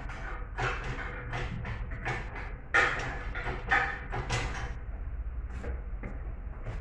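Irregular knocks and clanks of metal parts and tools being handled during engine teardown, loudest about three seconds in and again a second later, over a low steady hum.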